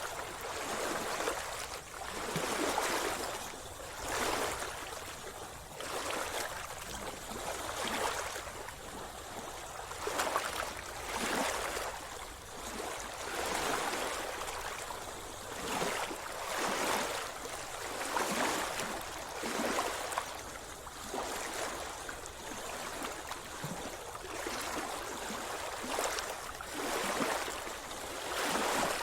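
Sea water splashing and gurgling in repeated surges about every second and a half.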